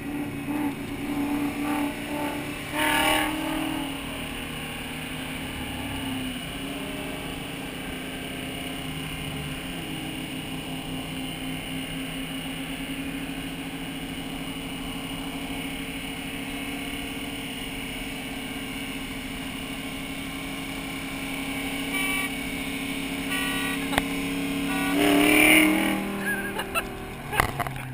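Fox-body Mustang V8 running under load, heard from inside the car during a roll race. The engine note drops after a loud burst about three seconds in, then holds a steady drone that climbs slowly, with another loud burst near the end.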